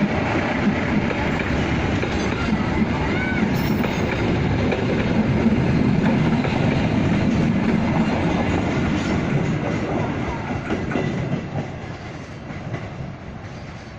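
Joglosemarkerto passenger train running past on the track, its wheels clattering over the rail joints, fading away over the last few seconds.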